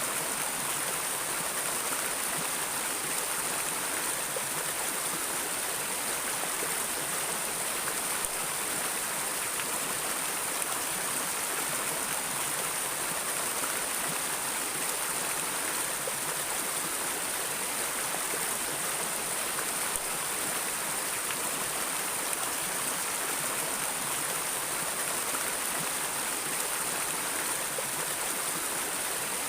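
Flowing river or stream water, a steady rushing and splashing with no breaks.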